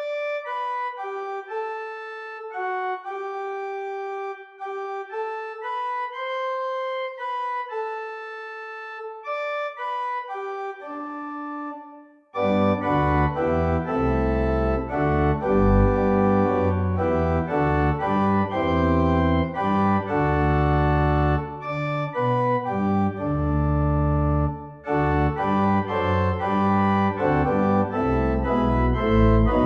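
Organ playing a hymn tune. For about twelve seconds only a light melody with thin accompaniment is heard, then the full organ comes in with deep bass notes and plays on, louder.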